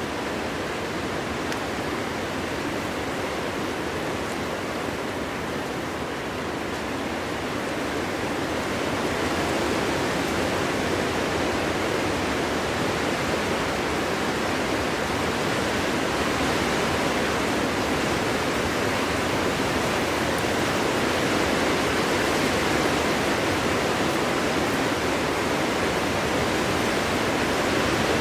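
Steady rushing winter wind through a forest, an even noise with no whistles or distinct gusts, getting a little louder about nine seconds in.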